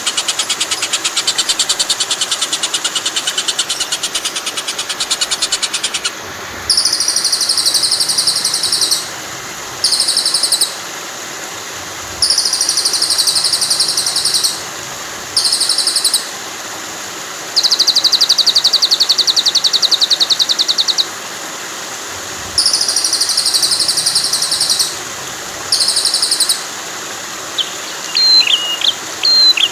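Recorded songbird training track: very rapid, high buzzing trills repeated in runs of one to three seconds over a steady hiss of flowing water. A few clear whistled notes come in near the end.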